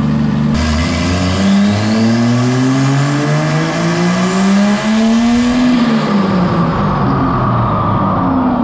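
Turbocharged Jeep Cherokee XJ engine making a pull on a chassis dyno. It goes from idle to revs that climb steadily for about five seconds, then fall away again, with a thin high whine rising alongside the climb.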